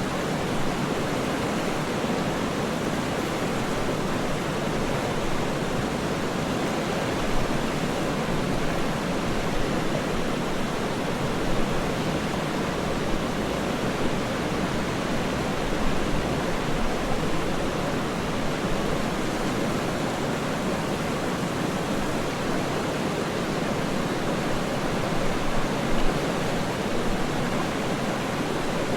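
Waterfall's steady rush of falling water, an even, unbroken noise weighted to the low-middle range, with a few brief slightly louder splashes.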